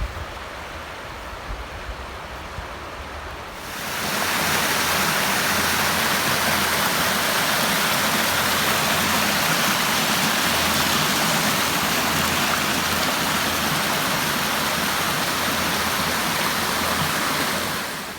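River Clyde rushing water: a loud, steady rush that cuts in suddenly about four seconds in and holds until near the end. Before it there is a softer, quieter water hiss with a few low thumps.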